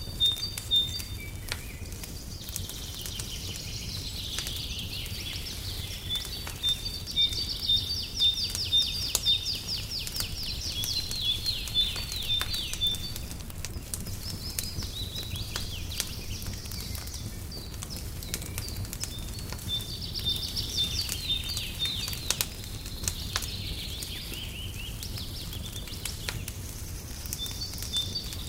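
Wood fire crackling in a fireplace, with scattered sharp pops throughout, under songbirds chirping and singing rapid trills.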